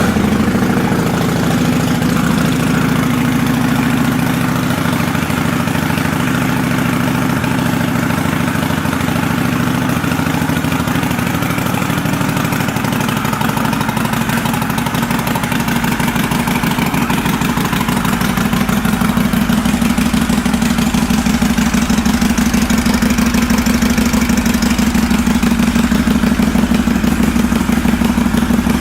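Kawasaki Vulcan 800 Classic V-twin idling steadily through staggered chrome Cobra aftermarket pipes, moments after being started; the idle grows a little louder about two-thirds of the way in.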